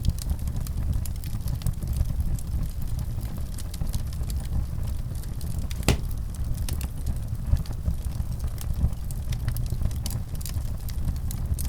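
Wood fire in a fireplace crackling, scattered sharp pops over a steady low rumble, with one louder pop about six seconds in.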